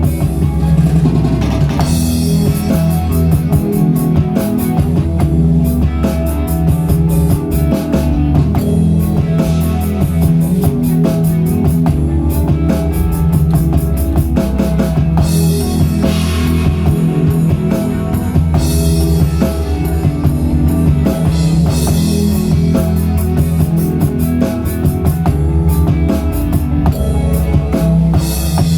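A rock band playing an original song: a drum kit with bass drum and crash cymbals, electric guitar and bass. Cymbal crashes come about two seconds in, around the middle, and near the end.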